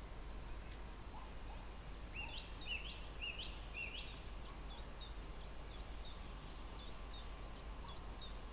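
A songbird singing a run of short, quickly rising whistled notes, about two a second, with four strong notes early in the phrase followed by a string of fainter, shorter ones. A low steady rumble sits underneath.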